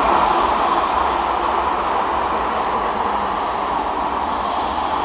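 Steady, loud road traffic noise: trucks and buses passing close by, a continuous rush of tyres and engines with a low rumble underneath.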